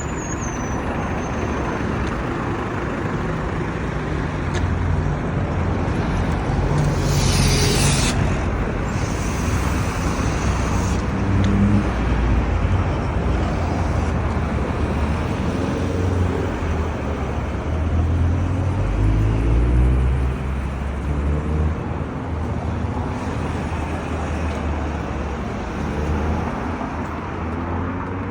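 Street traffic running past, with engine hum rising and falling as vehicles go by. There is a short burst of hiss about seven seconds in.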